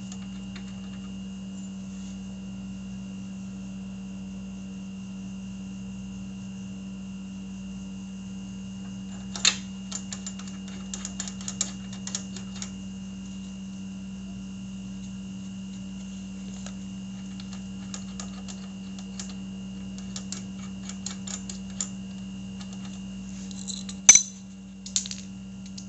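Scattered small metallic clicks and taps of hand work on the motorcycle's front brake caliper bolts, in clusters, with one sharp louder clack near the end, over a steady background hum.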